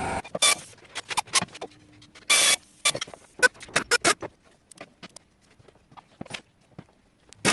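Tools working on the engine: a string of sharp clicks and metallic knocks, with two short bursts of noise, one at the start and one about two and a half seconds in.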